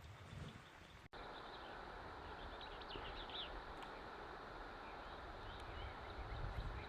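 Faint outdoor ambience with a few quiet bird chirps, mostly around three seconds in, after about a second of near silence.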